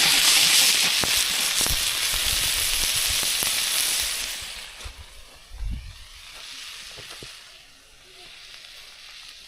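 Steak sizzling and spitting in an oiled pan over a wood campfire, a loud hiss with many sharp pops. About four seconds in the sizzle drops away suddenly to a soft hiss, with a single low thump shortly after.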